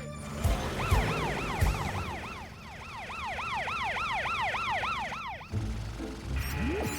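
Cartoon ambulance siren wailing in fast up-and-down sweeps, about four a second. It stops suddenly about five and a half seconds in.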